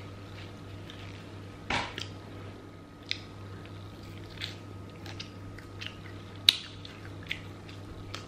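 Close-up biting and chewing of crispy fried chicken: scattered crunches and wet mouth clicks, a few of them louder, over a steady low hum.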